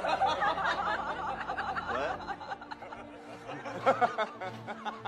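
A person laughing in quick, wavering bursts, loudest at the start, with a short louder burst near the end.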